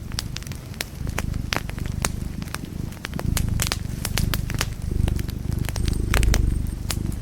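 Fireplace fire crackling: frequent, irregular sharp pops and snaps over a low, steady rumble of flames, with a louder cluster of pops about six seconds in.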